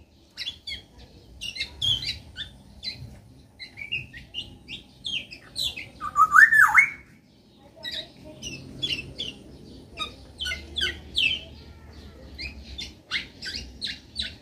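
Black-naped oriole (kepodang) giving one loud, looping fluty whistle about six seconds in, amid many short, sharp high chirps and calls throughout.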